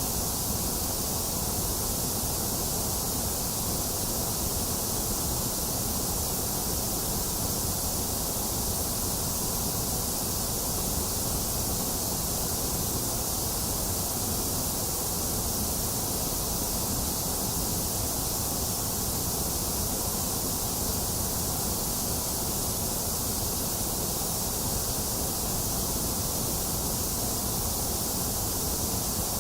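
Box fan running steadily, mixed with continuous rainfall, making an even, unchanging hiss.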